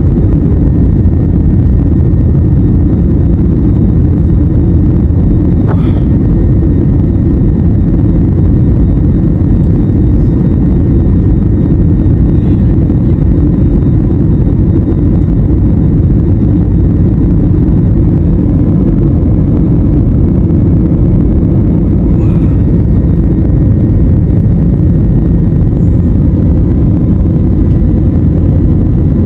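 Airliner cabin noise: the jet engines and airflow heard from inside the cabin as a loud, steady, low rumble with a faint high whine over it.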